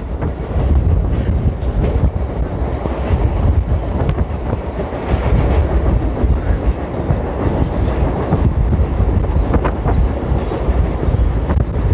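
Mumbai suburban electric local train running, heard from its open doorway: a steady rumble of the wheels on the rails, with a few sharp clicks near the end.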